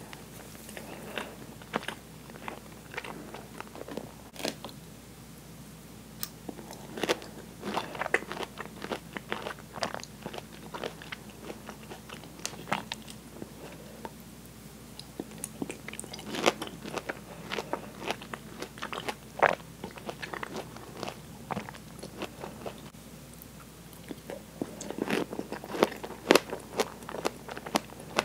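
Close-miked eating of fresh pineapple chunks: biting and chewing with wet, crunchy mouth sounds that come in bursts of sharp clicks. The loudest burst comes near the end.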